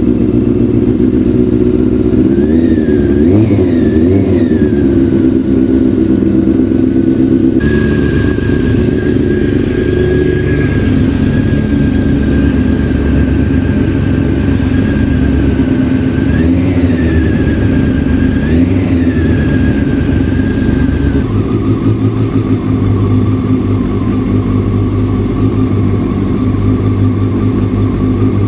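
Honda CBR600 F4i's inline-four engine idling after a cold start, with two quick throttle blips about three seconds in and two more around seventeen to nineteen seconds in. The tone of the idle changes abruptly twice.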